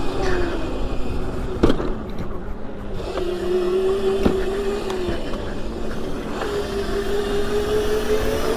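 Razor 650-watt electric dirt bike's motor whining while riding, its pitch dipping and climbing back as the speed changes, over low road and wind rumble. There are two sharp clicks, near 2 and 4 seconds in.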